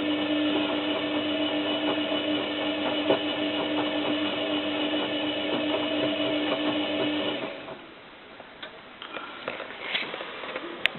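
Zanussi FLA1002W washing machine's drum motor whining steadily as it turns a duvet-laden drum in one direction during the heat-up of a 60 °C wash. The whine stops about seven and a half seconds in as the tumble ends and the drum rests, leaving faint irregular clicks and knocks.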